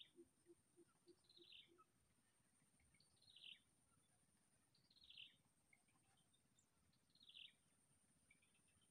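Faint bird call repeated four times, each a short falling note, about two seconds apart.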